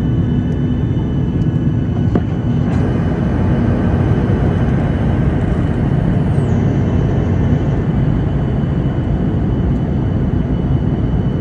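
Airliner cabin noise: the steady roar of the jet engines and airflow heard from inside the cabin, with a faint high whine that drops in pitch about six seconds in.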